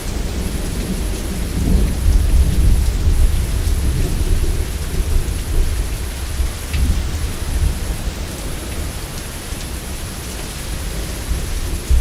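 Steady heavy rain with rolling thunder rumbling underneath. The thunder swells about two seconds in and eases off toward the end.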